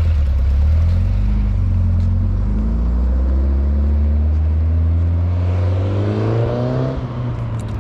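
Car engine running with a steady low drone, then revving up with a rising pitch from about three seconds in, and fading near the end as it pulls away.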